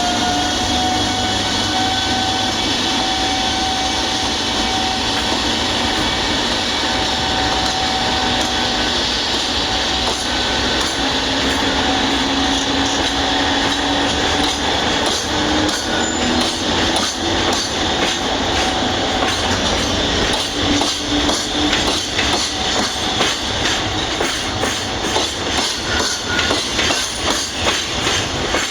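A freight train running past on the rails, with a steady whine that rises slightly near the start. From about halfway, a rapid clickety-clack of wheels over rail joints takes over.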